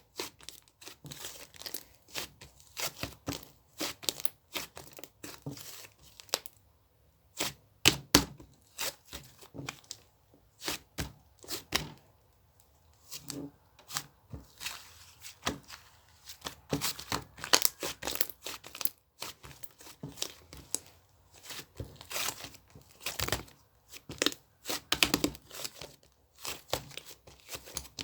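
Close, irregular clicking, tapping and rustling of small objects being handled by hand, in quick clusters with short pauses.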